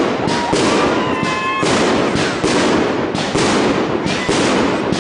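Fireworks display: a rapid barrage of aerial shell bursts, several bangs a second. A thin tone rises slightly in pitch through the first second and a half.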